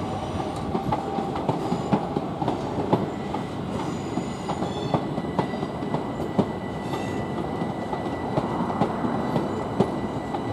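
Southern Class 377 electric multiple-unit train pulling out over the approach tracks: a steady rumble of wheels on rail, with a scatter of quick clicks over the joints and points and a faint steady whine.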